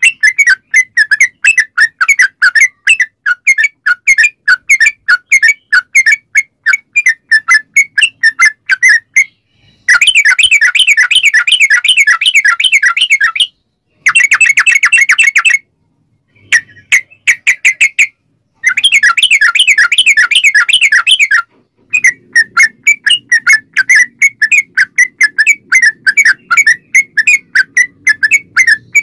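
Yellow-vented bulbul (trucukan) singing a fast, chattering string of short whistled notes. Several passages of very rapid rolling trills (the 'ropel' phrase) come from about a third of the way in to about three quarters in, broken by short sudden silences. A faint low hum joins near the end.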